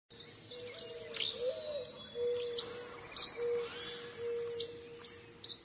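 Birds chirping: repeated short, sharp chirps and quick pitch sweeps over a lower, steady whistled note, cutting off suddenly at the end.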